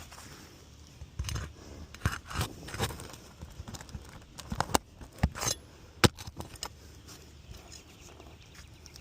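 Irregular clicks, scuffs and scrapes of work on an asphalt shingle roof: footsteps on the shingles and tools being handled. The sharpest click comes about six seconds in.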